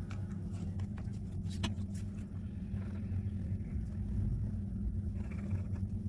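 Steady low background rumble, with a few faint light clicks in the first two seconds from paper being handled and stuck down.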